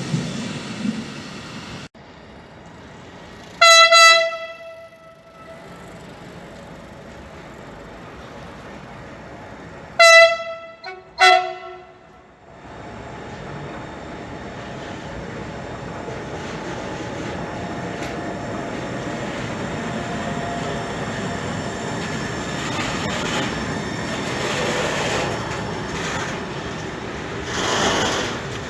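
Railway locomotive horn: one short blast about four seconds in, then two more about ten and eleven seconds in, the last at a different pitch. After that a train draws near and its running noise grows steadily louder.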